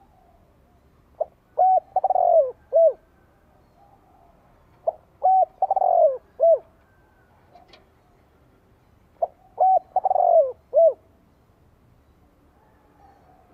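Spotted dove cooing: three phrases a few seconds apart, each a short note, two quick hooked notes, a longer falling coo and a last hooked note.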